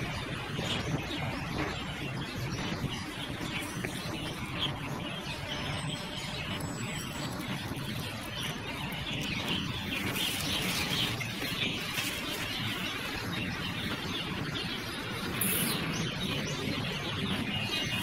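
Songbirds chirping and calling in short, scattered notes over a steady background rumble of road traffic.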